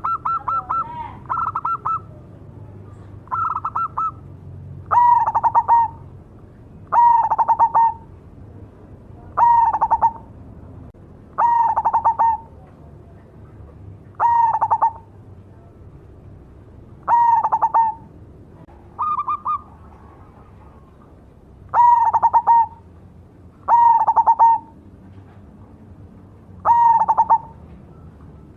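Zebra dove (perkutut) singing its cooing song: short phrases of rapid, rippling coos, repeated every two to three seconds.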